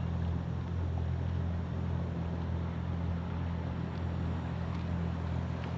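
A steady, low engine-like hum that holds an even pitch throughout.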